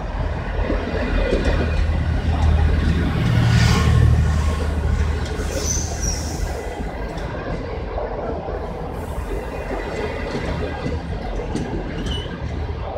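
Passenger train coaches rolling past on the rails as the train slows into the station: a steady low rumble of wheels, loudest about three to four seconds in. A brief high squeal comes about six seconds in, and a fainter one near the end.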